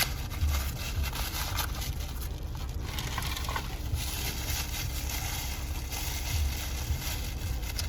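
Toy blind-box packaging being handled and opened: continuous crinkling and rustling with many small crackles and clicks.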